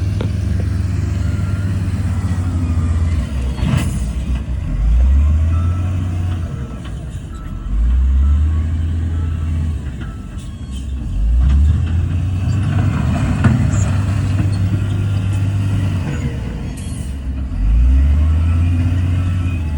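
Heavy diesel engine of an earthmoving machine working, its pitch rising and falling in repeated surges every few seconds. A few sharp clanks break through, around four seconds in and again near the end.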